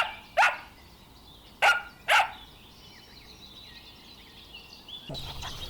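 A dog barking in two quick pairs, one pair at the start and one about two seconds in, with birds chirping in the background. Near the end the background suddenly turns to a louder low hum.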